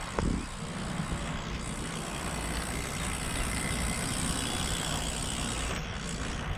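Wind rumbling on the microphone of a moving bicycle, with the tyre hiss of a motor vehicle passing that swells about a second and a half in and fades near the end.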